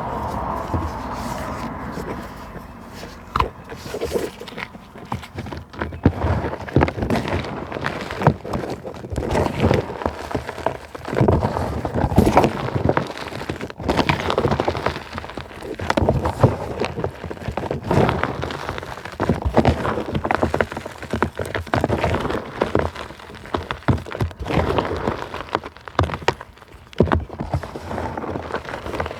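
Natural materials being crushed: a dense run of irregular crunches and crackles, swelling and easing in clusters every second or two.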